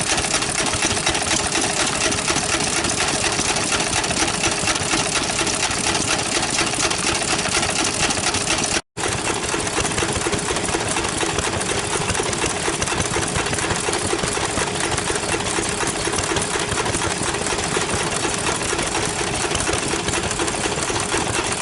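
Historic stationary engine running steadily with a rapid, even beat of knocks. The sound drops out for an instant about nine seconds in, then carries on the same.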